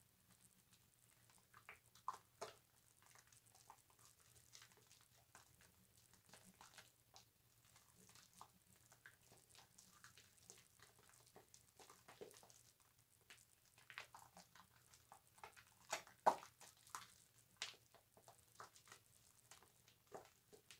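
Bar soap being lathered: faint, irregular wet squishing and crackling of foam, with a couple of louder squelches about two seconds in and near the middle-to-end.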